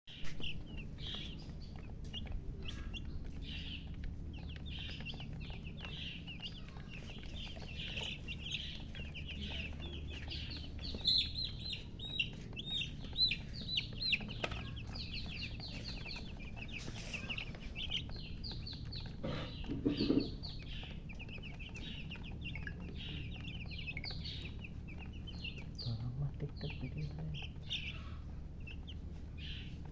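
A group of baby chicks cheeping nonstop, many short high peeps overlapping, thickest in the middle, which the uploader puts down to thirst. A steady low hum runs underneath, and a brief louder low sound comes about two-thirds of the way through.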